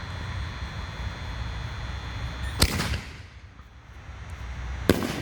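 Raccoon Holy Nishiki canister shell firework: a loud thump as it lifts from its mortar tube about two and a half seconds in, then a sharp bang as it bursts in the air about two seconds later.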